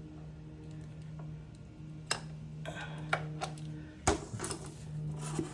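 Metal tool clinks and clicks of a wrench on the motorcycle's oil drain plug as it is broken loose, with one sharp loud crack about four seconds in and some scraping after it. A steady low hum runs underneath.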